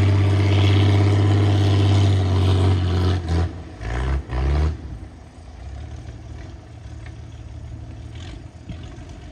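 Engine of a mud-suction dredging boat running steadily and loudly, then swooping up and down in pitch a few times about three to four seconds in. It then drops to a much quieter, low steady running sound.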